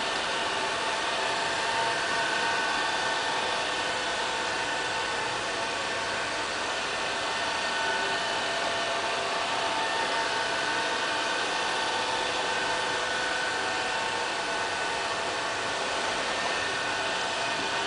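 LL-A320 robot vacuum cleaner running: a steady whir of its suction fan and brush motors, with several steady whining tones over it.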